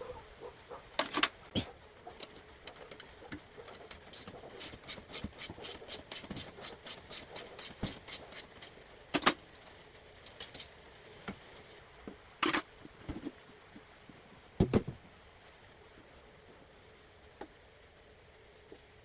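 Hand tools working on a go-kart chassis being stripped: metal clicks and knocks, with a run of evenly spaced clicks, about four a second, for several seconds in the middle.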